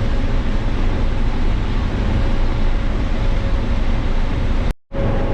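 Combine harvester running steadily while shelling corn, a constant drone with a faint steady hum. The sound cuts out for a moment near the end.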